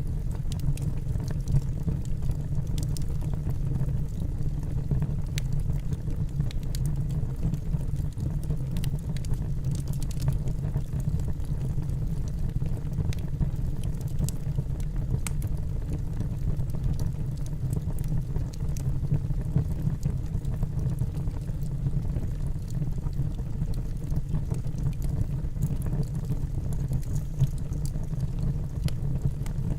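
Wood burning in a fireplace: a steady low roar from the fire with irregular crackles and small pops of the logs throughout.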